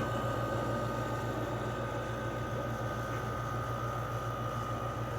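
LG 6000 BTU window air conditioner running with its compressor on: a steady low hum under the even rush of the fan, with a couple of faint steady high tones.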